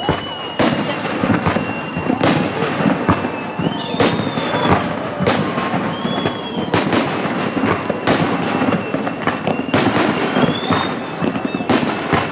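Fireworks display: about a dozen sharp shell bangs in irregular succession over constant crackling, with high whistling tones running through.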